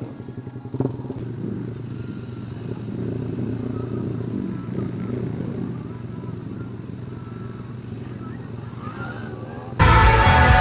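Motorcycle running at a steady idle through a CLD Monster Race aftermarket exhaust with its DB killer removed, with a brief sharp noise about a second in. Loud music cuts in abruptly near the end.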